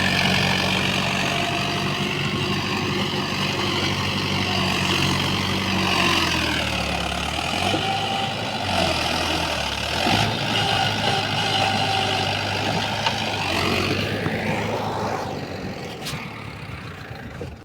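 Tractor diesel engine running steadily, its pitch dropping about six seconds in and rising again near fifteen seconds, then fading away at the end.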